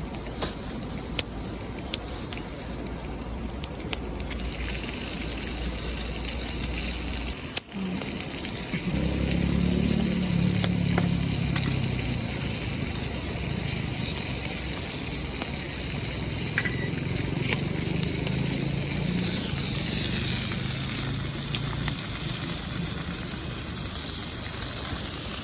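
Food frying in melted beef tallow in a pan over a campfire, a steady sizzle with occasional faint crackles.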